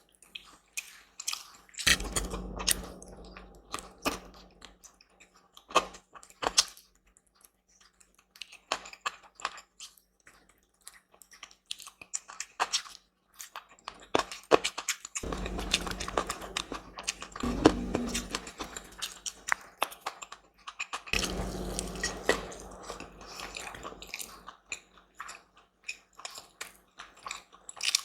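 Close-miked eating: a person chewing and biting food, with many short wet mouth clicks and a few denser, busier stretches of chewing.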